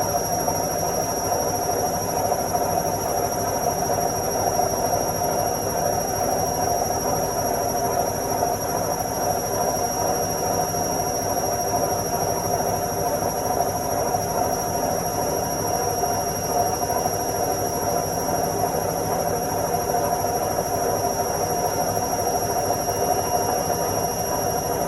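Washing machine running its spin cycle: the drum spinning at a steady speed with an even rumble and whir, and a thin, steady high tone above it.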